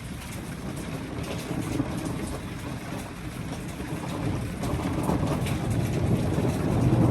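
Thunder rolling as a low rumble that swells louder toward the end, over a light patter of rain.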